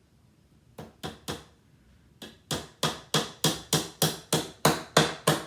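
Hammer driving a small nail into a wooden beehive frame: three light taps about a second in, then a steady run of harder blows, about three a second.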